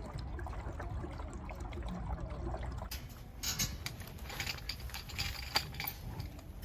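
Wind buffeting the microphone as a steady low rumble; from about halfway through, a quick run of clicks and clatters as camping gear is handled and fitted together.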